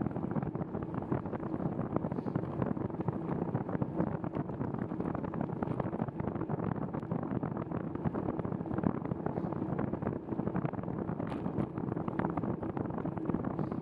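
Wind buffeting the camera's microphone during a bicycle ride, a steady rough rumble with constant crackle.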